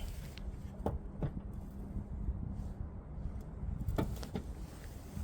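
A few short clicks and knocks of parts being handled and pulled off during repair work on the truck's vacuum pipework, in two pairs about one and four seconds in, over a low steady hum.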